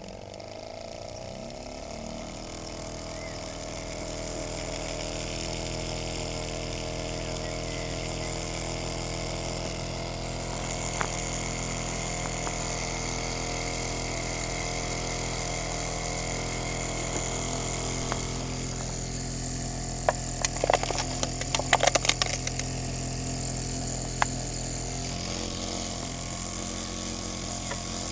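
Small solar-heated Stirling engine running with a steady mechanical hum. Its pitch and loudness climb over the first couple of seconds as it gathers speed, then hold steady. A brief cluster of sharp clicks comes about twenty seconds in.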